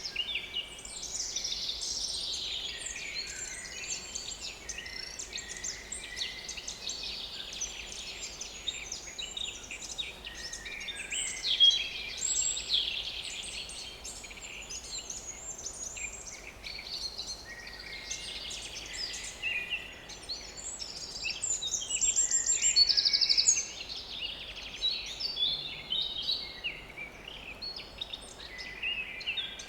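A chorus of several small woodland songbirds singing at once, with overlapping chirps and short phrases throughout. One loud, fast trill stands out about two-thirds of the way through.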